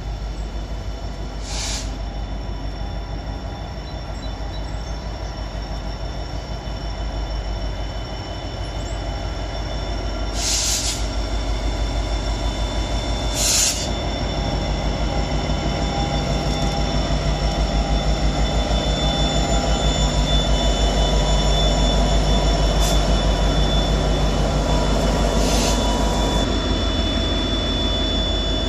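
Norfolk Southern diesel freight locomotive passing close by at low speed, its engine and wheel rumble building as it draws level, with steady high-pitched wheel squeal and a few sharp clanks.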